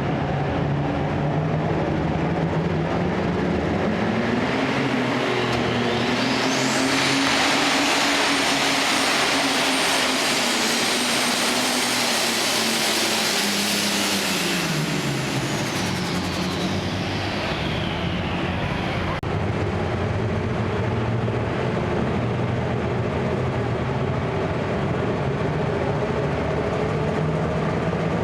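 Super stock pulling tractor's turbocharged engine at full throttle on a pull: the turbochargers' whine climbs sharply to a high scream about six seconds in, holds for about eight seconds, then winds down as the throttle comes off, over a steady loud engine drone.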